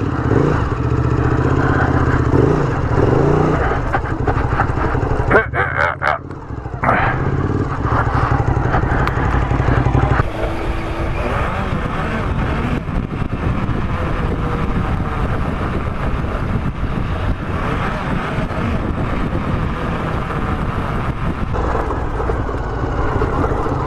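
Sport motorcycle riding on a dirt forest track, its engine running with a steady note. About ten seconds in the sound changes abruptly to a rougher, noisier mix of engine, wind and ground noise.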